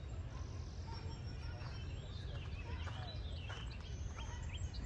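Birds chirping and calling in short, scattered notes and quick downward whistles, busiest in the second half, over a steady low rumble.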